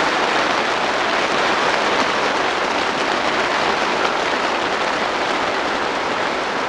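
Heavy hail hitting the plastic sheeting of a polytunnel, a dense, steady patter with no let-up.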